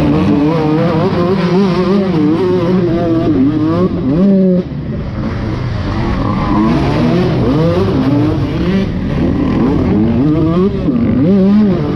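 Dirt bike engine being ridden hard on a motocross track, its note rising and falling constantly as the throttle is worked, with a sudden drop about four and a half seconds in.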